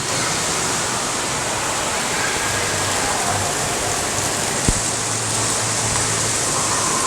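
Steady rush of falling water, with a single sharp click about two-thirds of the way through.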